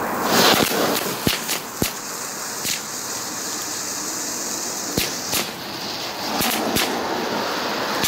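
'Star Kids' light-effect firework burning with a steady hiss, broken by about ten sharp crackles and pops.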